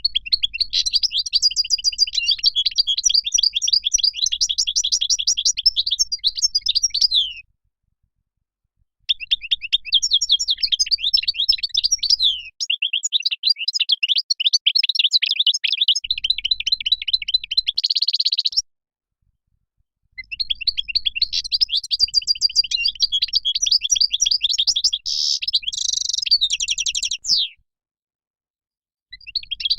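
European goldfinch singing: long bouts of fast, tinkling twittering song, with short breaks of a second or two between bouts.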